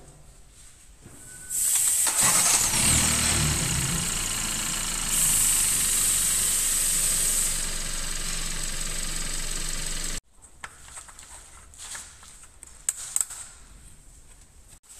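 Kia Ceed / Hyundai i30 1.5 T-GDI turbocharged petrol engine started after fresh oil has been filled: it catches about a second and a half in with a brief low flare, then idles steadily until the sound cuts off abruptly about ten seconds in. Faint clicks and handling noises follow.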